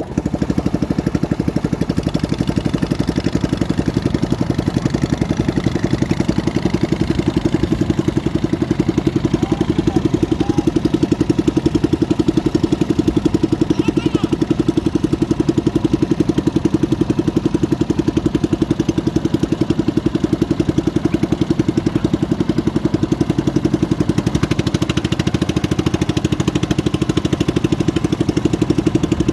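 A small boat engine running steadily at a constant speed, with a fast, even putter.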